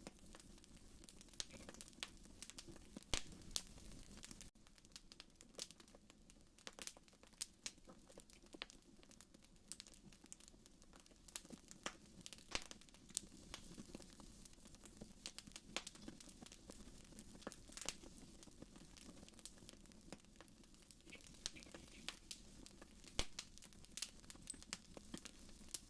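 Fireplace fire crackling, with irregular sharp pops and snaps over a faint, steady low background.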